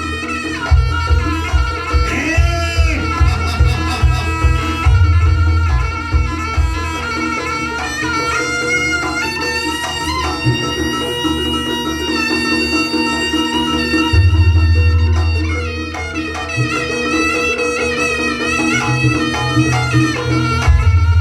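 Javanese jaranan music: a reedy, bagpipe-like wind instrument playing a wavering melody over drums and a heavy low beat.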